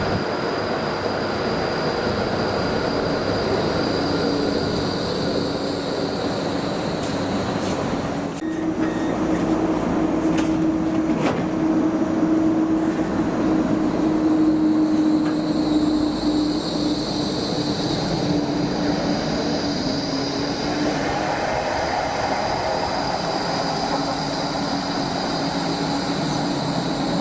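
Low-floor electric tram running on its rails: a steady motor whine over continuous rolling wheel noise.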